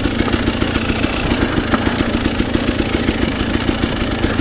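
Dirt bike engine idling steadily at a constant, even beat, the bike stopped and not moving.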